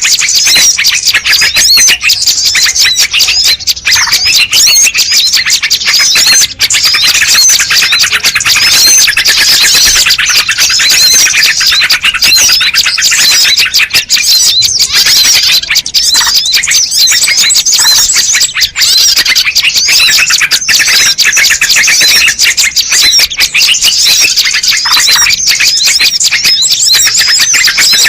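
Bird-lure recording: a loud, dense chorus of many small birds chirping and twittering at once, quick high calls overlapping without a break.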